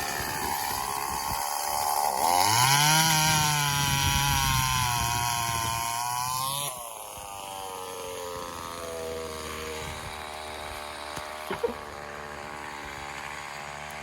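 Small petrol engine revving: its pitch rises about two seconds in, holds high for about four seconds, drops suddenly near the middle, then runs steadily at a lower pitch.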